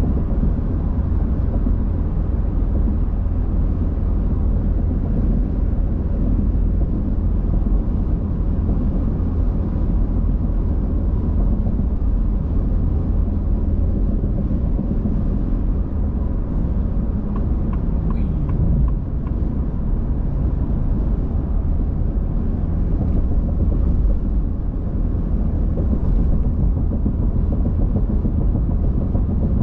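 Steady low rumble of a car driving at speed: road and engine noise with no sudden events.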